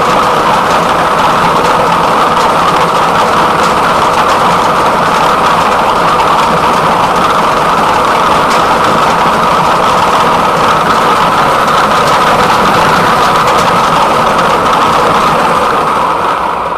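Lottery ball machine mixing the numbered balls for a draw: a loud, steady whirring noise with faint rattling, which cuts off just before the end.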